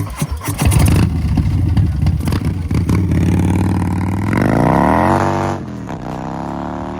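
Custom Harley-Davidson V-twin with a big-cube built motor, revving up: the engine pitch climbs, drops sharply about five and a half seconds in, then climbs again, with some clatter in the first second.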